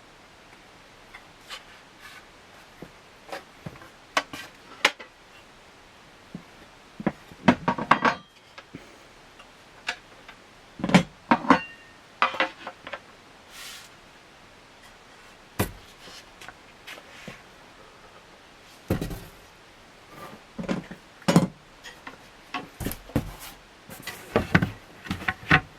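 Ceiling fan parts being handled: irregular clicks, clinks and knocks of metal blade brackets and hardware against each other and the packaging, coming in bunches with pauses between.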